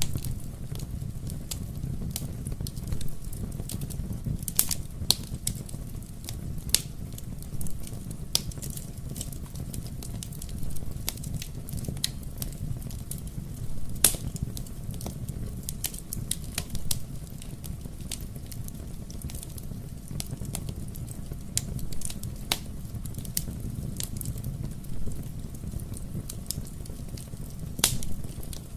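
Wood fire burning in a fireplace: a steady low rumble of the flames with frequent sharp crackles and pops, a few louder snaps scattered through.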